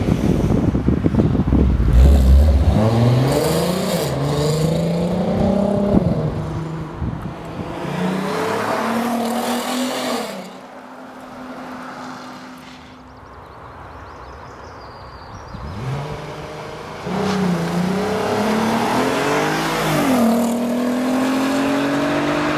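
VW Golf R32's 3.2-litre VR6 accelerating hard through the gears. It opens with a deep rumble, then the engine note climbs and drops sharply at a quick upshift about six seconds in, then climbs again. The sound falls away for several seconds, then returns with another climb and an upshift near the end.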